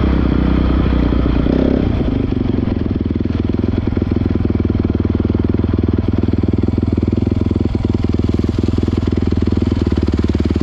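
Honda CRF450R dirt bike's single-cylinder four-stroke engine running a little above idle for about two seconds, then settling into a steady, evenly pulsing idle.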